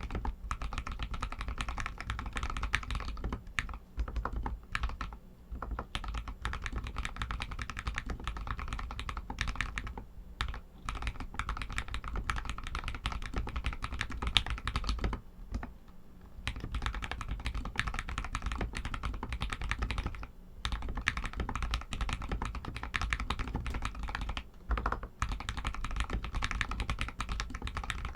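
Royal Kludge RK61 mechanical keyboard with Outemu Red linear switches being typed on steadily and quickly, a dense run of key clacks broken by a few short pauses.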